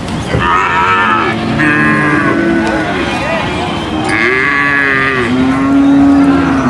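Cattle mooing: a series of long, loud moos, some overlapping, rising and falling in pitch.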